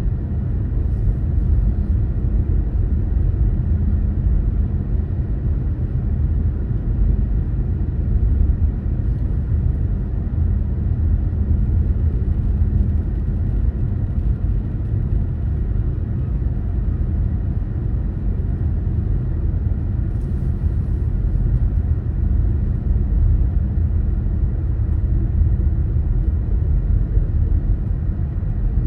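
Steady low rumble of a car being driven: engine and tyre road noise, with a few brief faint hisses.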